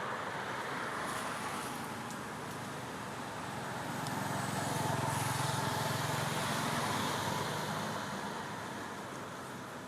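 A motor vehicle passing by: a steady rush of noise that swells with a low engine hum about four seconds in, then fades away.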